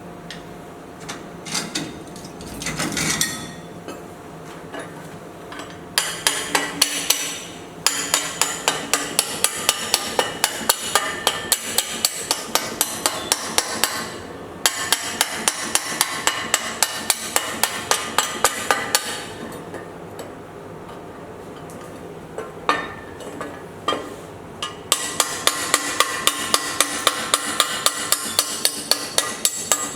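Hammer striking metal in a steady rhythm, about three blows a second, in long runs over a steady hiss. It pauses twice, with only a few single knocks in between.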